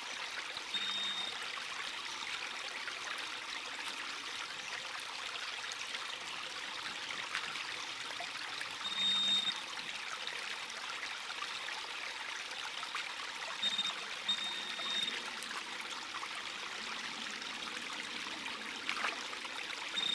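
Metal detector sounding several short, high beeps as it is swept over a target: about a second in, around nine seconds, twice around fourteen seconds, and again at the end. Under the beeps is a steady rushing background noise.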